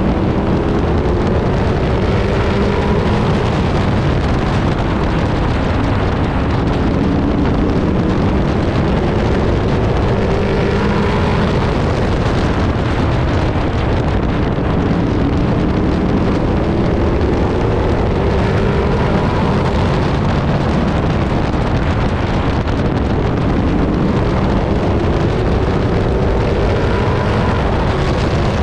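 Onboard sound of a racing pickup truck's engine at speed. The pitch climbs and falls back several times as the truck accelerates and lifts, with wind buffeting the microphone.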